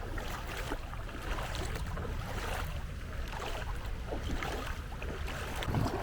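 Feet wading through shallow seawater, with irregular sloshes and splashes at each step, over a steady low rumble of wind on the microphone.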